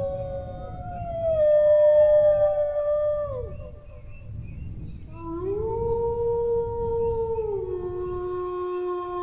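Dog howling: a long held howl that slides down and fades about three and a half seconds in, then after a short pause a new howl that rises in, holds, and steps down to a lower pitch, still sounding at the end. A low rumbling background noise lies underneath.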